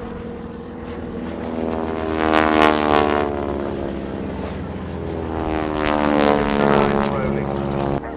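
Two Boeing Stearman biplanes with radial engines flying past one after the other, the engine and propeller note dropping in pitch as each goes by. The first is loudest a little over two seconds in, the second about six seconds in.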